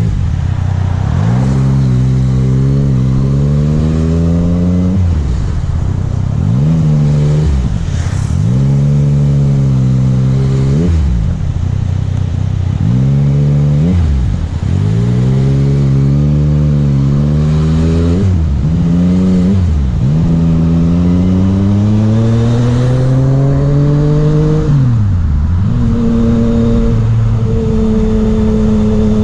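Yamaha MT-09's three-cylinder engine pulling up through the revs and dropping off again and again, as the throttle is opened and closed, with wind noise over it. In the last few seconds it holds a steady pitch.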